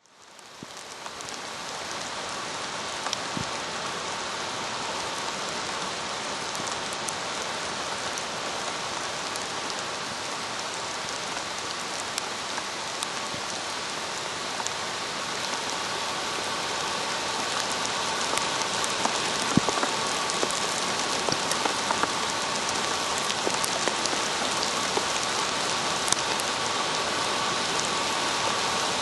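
Steady rain falling: an even hiss with scattered sharp ticks of drops striking close by. It fades in over the first couple of seconds and grows slightly louder in the second half.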